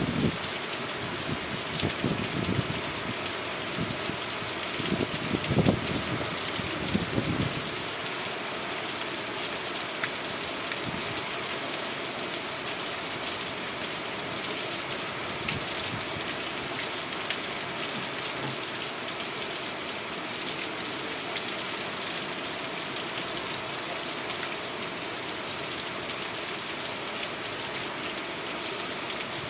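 Steady, heavy rain falling: an even dense hiss. A few low rumbles swell through it during the first several seconds.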